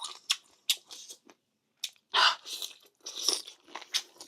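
A person chewing and biting crunchy food, most likely the spicy chicken feet being sold: irregular crisp crunches and wet chewing with short pauses.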